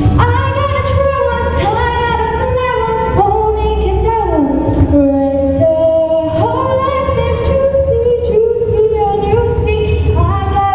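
A girl singing a solo show tune, holding long notes that slide between pitches.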